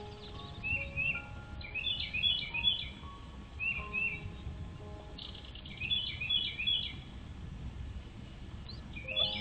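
A bird chirping in quick clusters of high, rapid chirps, three bursts spaced a few seconds apart, over soft background music with slow held notes.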